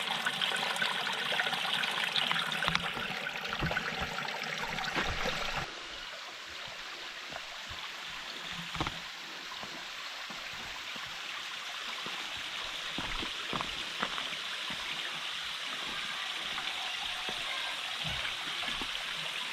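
Stream water running and trickling steadily, dropping a little in level about six seconds in.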